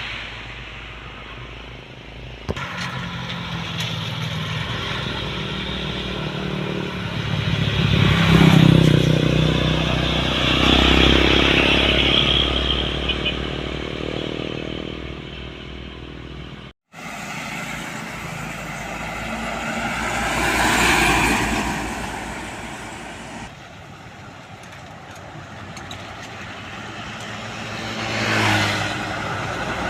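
Trucks on a road going past one after another, engines running, the sound swelling as each one passes, about 8, 11, 21 and 28 seconds in. The sound cuts out for an instant near the middle.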